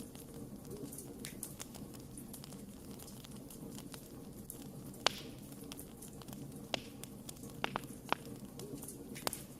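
Wood campfire burning: a low steady rush of flame with scattered sharp crackles and pops, the loudest about halfway through and several more in quick succession near the end.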